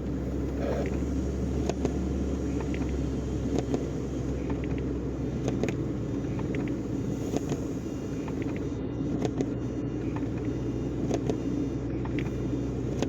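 Semi-truck's diesel engine running steadily, a low rumble heard from inside the cab, with a few faint clicks.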